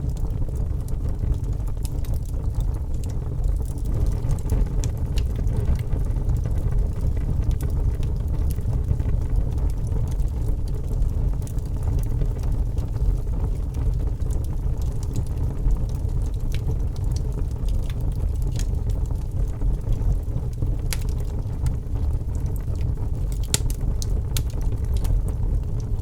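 Wood fire burning in a fireplace: a steady low rumble of flames with scattered crackles and pops, a few sharper ones near the end.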